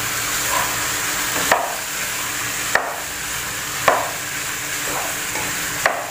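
Chicken pieces, onion and potato being stirred in a non-stick pan over the flame: a steady frying sizzle, with the spatula knocking sharply against the pan about four times.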